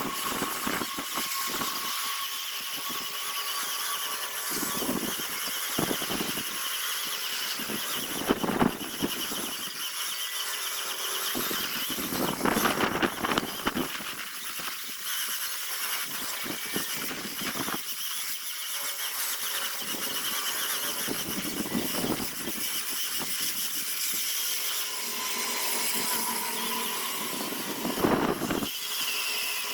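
A handheld power sanding tool running at high speed with a steady whine, sanding a zelkova (keyaki) root piece, with irregular louder scraping surges as it is pressed into the wood.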